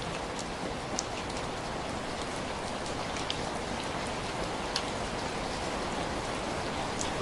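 Steady rain, an even hiss with a few sharp clicks scattered through it.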